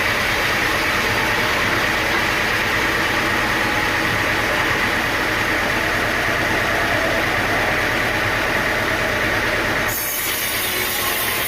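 Sawmill machinery running steadily, a loud continuous mechanical noise. About ten seconds in, the sound changes abruptly, with the top end dropping away.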